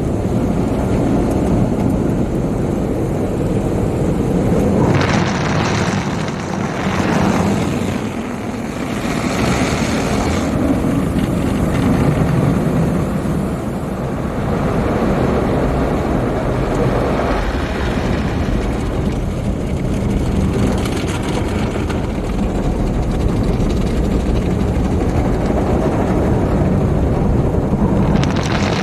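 Tunnel car wash equipment working over a car, heard from inside the cabin: a steady, loud rush of water and machinery, swelling for a few seconds between about five and eleven seconds in.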